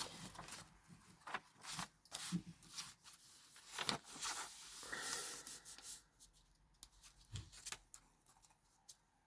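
Book-page paper rustling and being handled and rubbed, with scrapes and light taps on the desk, thinning to a few faint clicks over the last few seconds.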